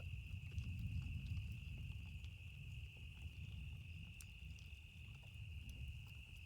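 Campfire crackling with scattered sharp pops over a low rumble that slowly eases, with a steady high-pitched insect drone like crickets behind it.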